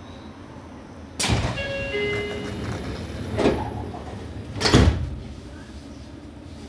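Seibu 6000 series train's sliding doors closing: the door engines start with a sudden hiss about a second in, with a few short steady tones over it, and end with a loud thump as the doors shut near the five-second mark.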